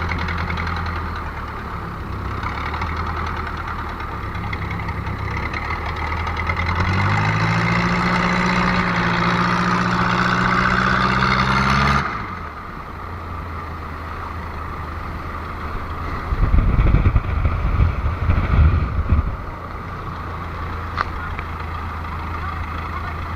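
An engine idling, revving up about seven seconds in, holding the higher speed, then dropping back to idle abruptly. A few seconds later a burst of heavy low rumbling thumps lasts about three seconds.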